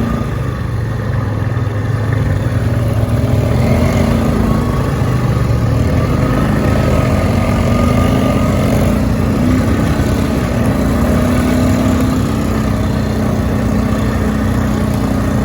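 Quad bike engine running at a fairly steady pitch, with a constant rushing noise under it.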